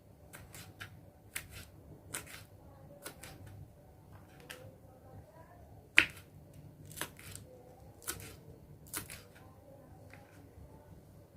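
Kitchen knife slicing vegetables on a cutting board: irregular taps and clicks of the blade on the board, with one sharper knock about six seconds in.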